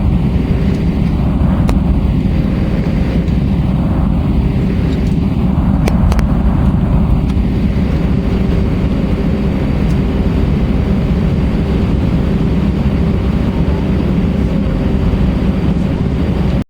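Airbus A320-232's IAE V2500 jet engines and airflow heard from inside the passenger cabin: a steady, loud rumble with a faint constant hum, holding level throughout.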